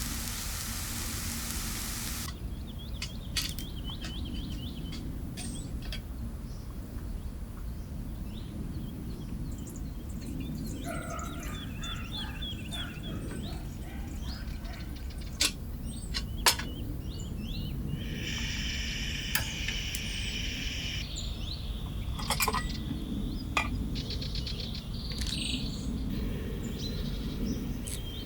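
Food sizzling in a pan for about two seconds, cutting off abruptly. Then various birds chirp and call over a steady low outdoor rumble, with a few sharp clicks and a longer buzzy call about two-thirds of the way through.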